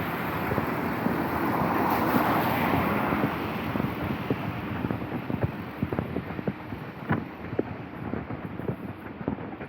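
A vehicle passing on a wet street: a hiss of tyres that swells about two seconds in and then fades. Scattered sharp taps run through it, more of them near the end.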